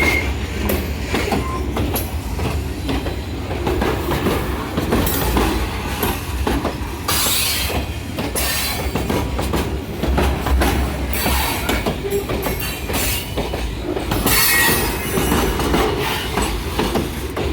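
Freight train cars rolling past on the rails, with wheels squealing briefly near the start and again near the end, and clicking and clacking over the rail joints.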